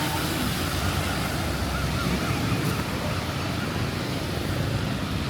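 Steady rain hiss mixed with road traffic: vehicle engines running and tyres hissing on the wet road.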